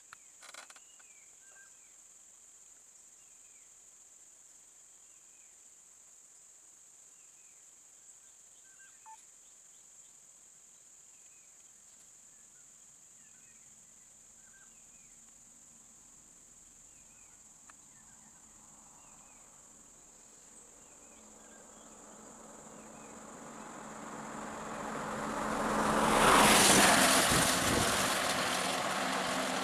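Steady high insect drone with scattered faint bird chirps. Near the end a vehicle approaches, passes close and begins to fade.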